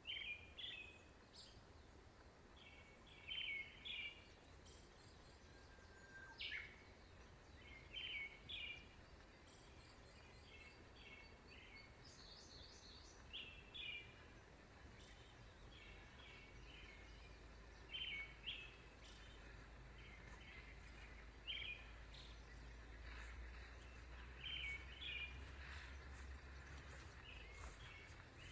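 Faint songbirds chirping in short bursts of a few notes every second or two, over a steady low rumble.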